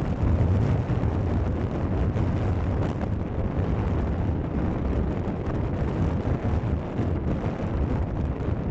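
Strong wind buffeting the microphone: a steady, loud low rumble and rush with no clear tone.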